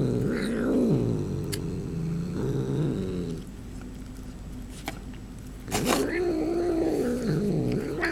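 A domestic cat making low, wavering growl-like murmuring noises while eating, in two long stretches with a quieter pause between. A few sharp clicks come through as it eats.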